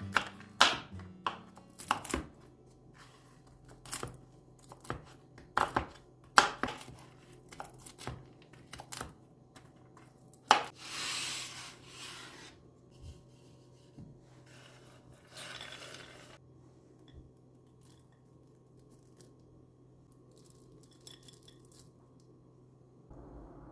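Kitchen work sounds: irregular knocks and clatter of utensils and dishes on a counter, loudest in the first half, with two short rustling hisses later on and a faint steady hum beneath.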